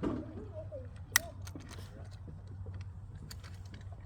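TenPoint Siege 410 crossbow firing a bolt: one sharp, loud crack about a second in. Light clicks of the bow being handled follow it.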